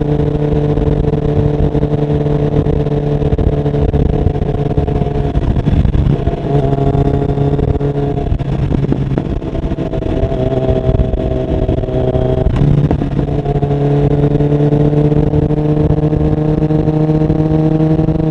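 2021 Kawasaki Ninja 1000SX inline-four running through stainless Black Widow headers and a LeoVince end muffler, held at steady revs. The exhaust note shifts pitch several times between about six and nine seconds in and again just after twelve seconds, then holds steady and rises slightly.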